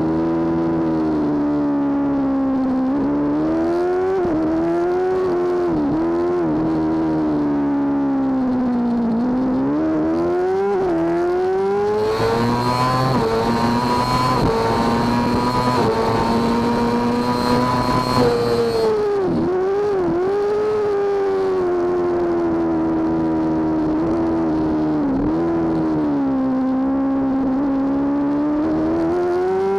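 Racing motorcycle's engine heard from on board, its pitch climbing and falling with gear changes and braking, with sharp dips every few seconds. From about twelve to nineteen seconds in it holds a steady high pitch at full throttle with a thin high whine on top.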